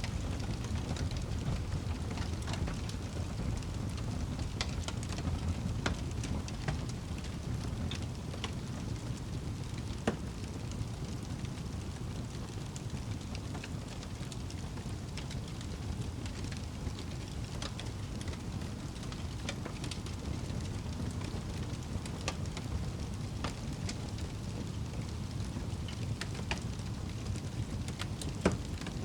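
Wood fire burning in a fireplace: a steady low rumble of flames with scattered crackles and pops, two louder snaps, one about a third of the way in and one near the end.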